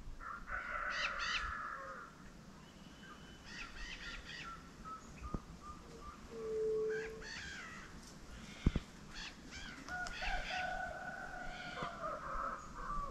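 Birds calling: a series of harsh, cawing calls, then a longer held call near the end. Two sharp clicks about five and nine seconds in.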